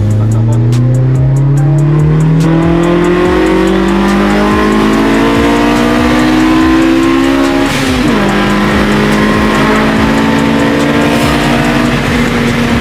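Car engine accelerating hard, its pitch climbing steadily for about eight seconds. A gear change then drops the pitch suddenly, and the engine holds a steady pitch after the shift.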